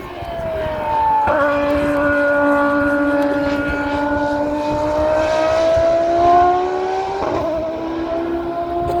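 A Formula 1 car's engine running at speed under load, its pitch climbing slowly. The pitch drops sharply about a second in and again near the end, as the car changes gear.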